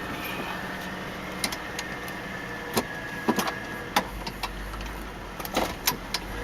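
Lincoln Town Car's 4.6-litre V8 idling steadily, with a string of sharp clicks and taps scattered over it.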